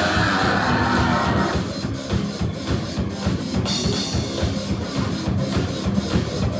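Live rock band playing an instrumental passage, the drum kit driving a steady beat under guitars and bass.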